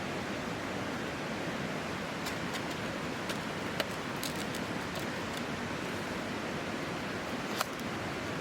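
Wood campfire burning: a steady hiss with scattered light crackles and two sharper pops, about four and seven and a half seconds in.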